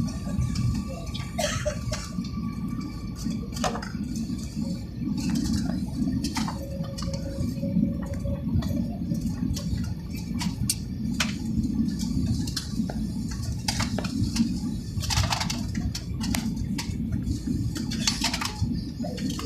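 Steady low rumble of an airliner cabin, with scattered small clicks and rustles.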